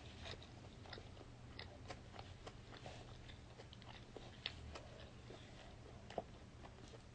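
Faint chewing close to the microphone: irregular small crunches and mouth clicks over a low steady room hum.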